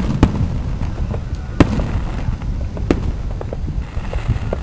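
Fireworks display: shells bursting in an irregular run of loud bangs and smaller cracks over a continuous low rumble, with the biggest bangs at the start, about a second and a half in, and near three seconds.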